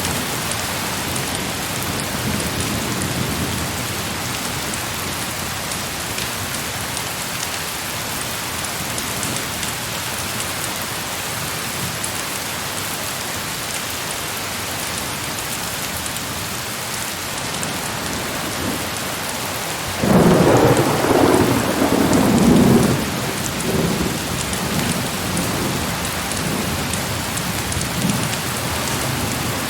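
Heavy rain falling steadily. About two-thirds of the way through, a sudden loud clap of thunder breaks in, then rumbles away over several seconds.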